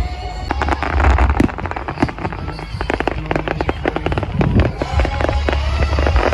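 Fireworks going off: many rapid crackles and pops, starting about half a second in.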